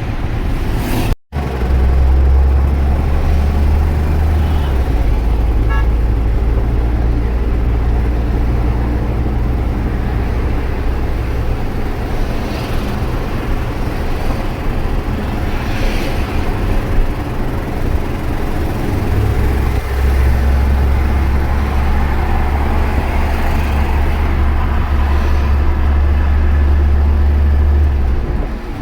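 Peterbilt big-rig truck driving, heard from inside the cab: a steady diesel engine drone and road noise with a deep low rumble that swells and eases. The sound cuts out briefly about a second in.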